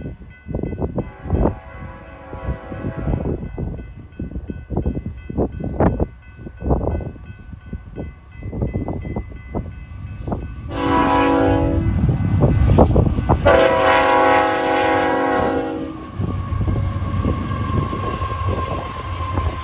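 Diesel locomotive air horn sounding for a grade crossing: a fainter blast about a second in, then two loud long blasts about 11 and 13 seconds in. After the horn, the locomotives and cars rumble past.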